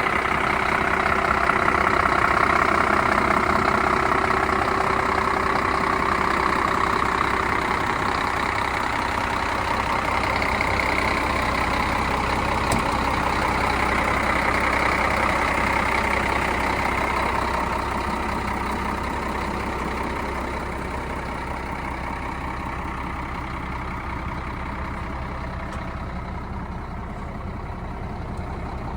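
2004 Scania P114 suction-and-flushing truck running steadily at idle, its 11-litre straight-six diesel giving a constant mechanical run with a whirring note; the sound eases a little about two thirds of the way through.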